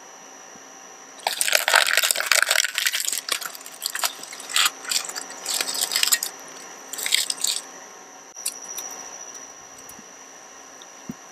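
Shredder crunching the plastic of a toy truck: a dense run of cracking and snapping about a second in, then shorter crunches that thin out and stop, over a steady faint hum.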